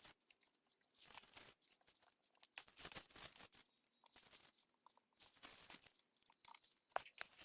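Near silence with faint, scattered crackles and rustles at irregular intervals.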